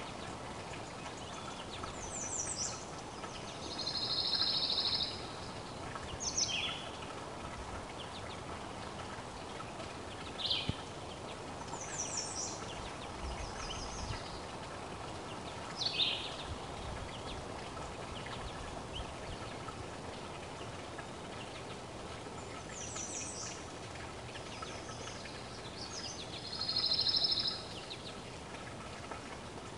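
Wild birds calling outdoors: scattered short, high calls every few seconds, with two longer, louder calls of about a second each, one a few seconds in and one near the end, over a faint steady background hiss.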